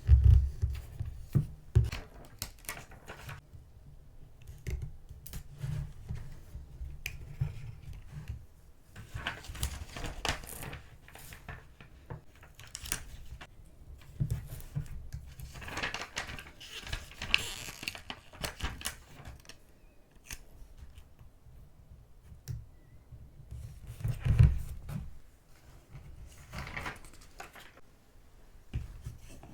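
Paper crafting sounds on a desk: rustling and crinkling of paper die-cuts and stickers being handled, with scattered light taps and clicks and a few louder thumps.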